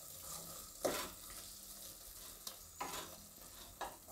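Chopped spinach sizzling faintly in a steel kadai on low gas, with a few light knocks of the wooden spatula against the pan.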